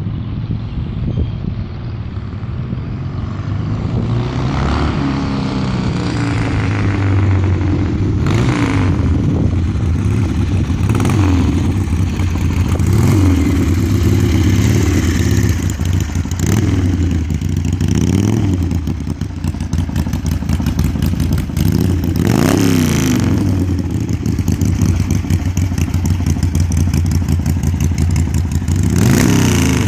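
A 1976 Harley-Davidson Ironhead V-twin motorcycle engine running on a cold start. It idles steadily and the throttle is blipped several times, each rev rising and falling back to idle.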